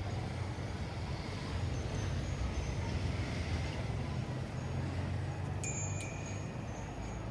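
Street ambience: a steady hiss over a low rumble of vehicle traffic that swells in the middle, with faint high ringing tones and a short bright chime-like strike near the end.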